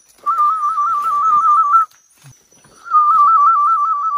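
Bird calling: two loud whistled phrases about a second and a half each, warbling quickly back and forth between two close notes, with a short pause between them.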